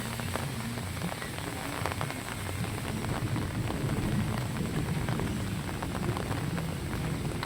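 Rain falling steadily: a continuous hiss dotted with many close drop ticks, over a low rumble.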